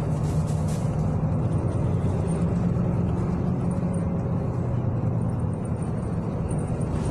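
City bus engine running with a steady low drone, heard from inside the passenger cabin while the bus travels.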